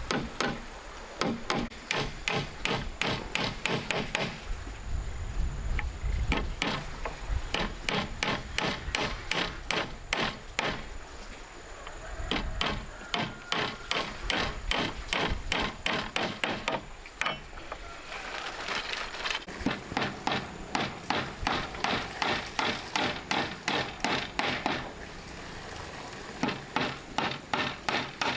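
Rapid, even knocks, about four a second, in long runs broken by a few short pauses.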